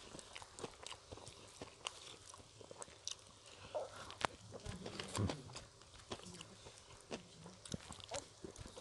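Close-miked eating: gado-gado with crisp crackers being bitten and chewed, giving irregular crunches and clicks.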